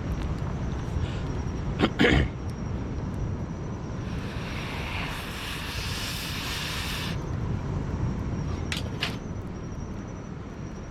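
Steady low rumble with a few sharp knocks, and a hiss lasting about three seconds that starts and stops abruptly in the middle.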